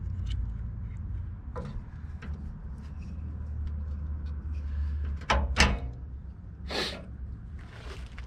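Rubber fuel hose being trimmed and handled: scattered light clicks and a few sharp snaps, the loudest about five and a half seconds in, over a steady low hum.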